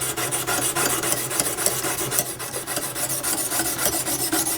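Oiled Lansky honing stone stroked quickly back and forth along the steel edge of a clamped saw blade, a steady run of short strokes. The fine stone is polishing out the scratches on the edge.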